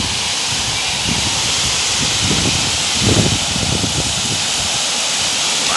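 Water from a fountain's rising and falling jets spraying and splashing down, a steady loud hiss. Low buffeting of wind on the microphone runs underneath.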